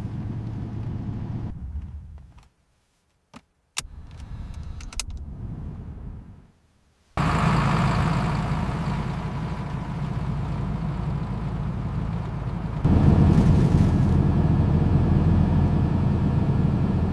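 Truck engine running with a steady low rumble. It is broken by a short near-silent stretch with a few sharp clicks, then comes back abruptly and steps louder about six seconds later.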